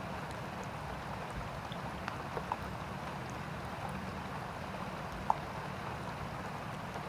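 Steady hiss of light rain with a low hum beneath, and a few sharp ticks, the loudest about five seconds in.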